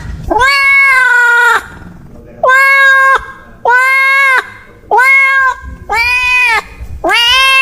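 A cat meowing loudly over and over: six long, drawn-out meows in quick succession, each held on a steady pitch for about a second.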